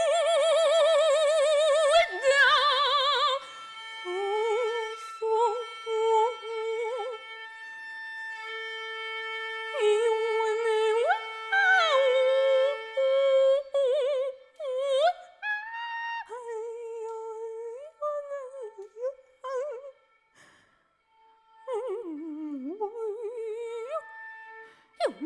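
Experimental vocal music: an operatic voice with wide vibrato, sliding up and down and holding notes, over several steady held tones. There is a brief silence near the end.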